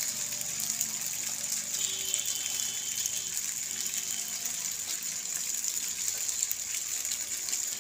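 Penne pasta frying in oil in a metal pan, a steady sizzling hiss.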